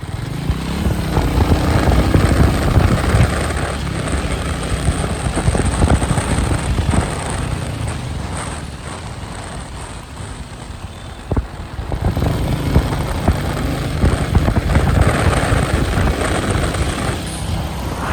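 Royal Enfield Meteor 350's single-cylinder engine and exhaust running at highway speed, with wind rushing over the microphone. The engine pulls harder about a second in and again about twelve seconds in, easing off in between.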